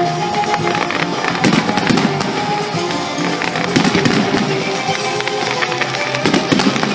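A fireworks display going off, with repeated bangs and crackling, over loud music played with the show.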